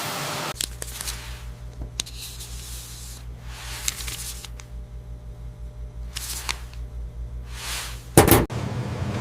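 Factory machinery running with a steady, pulsing low hum, broken by short hissing bursts every second or so and one loud, sharp crack near the end.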